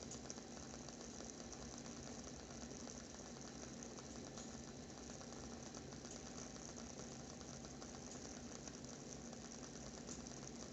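WoodWick 'Fireside' candle's wooden wick crackling faintly as it burns: a dense run of small, rapid ticks over a steady low hum.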